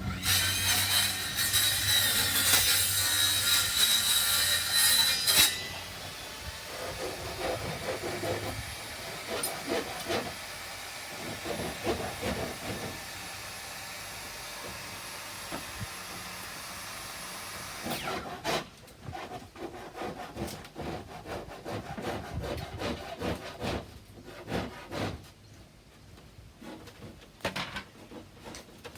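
Wooden board being sawn. It is loudest for the first five seconds or so, then quieter cutting follows, and from about eighteen seconds in there is a run of short rasping strokes.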